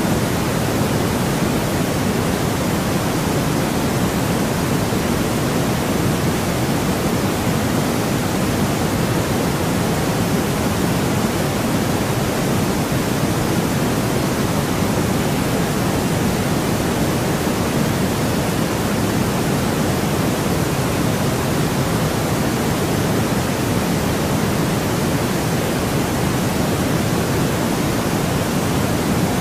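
Steady, unbroken generated noise of the kind sold as sleep white noise, an even hiss with most of its weight low down and no tones, changes or breaks.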